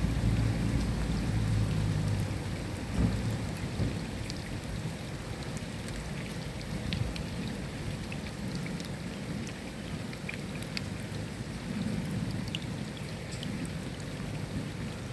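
Steady rain falling, with scattered individual drops ticking sharply on a surface. A low rumble of thunder dies away about three seconds in, and a fainter rumble swells briefly near the end.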